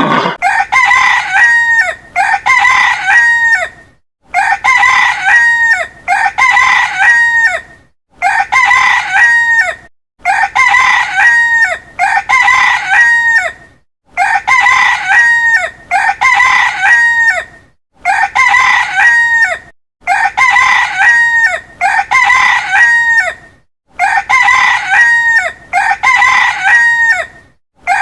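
Rooster crowing over and over, one crow about every two seconds, with the same call repeating at a steady pace.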